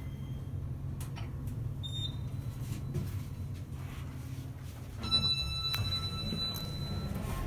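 Elevator signal: a short faint beep about two seconds in, then, after a click about five seconds in, a steady electronic tone held for about two seconds, over a constant low hum.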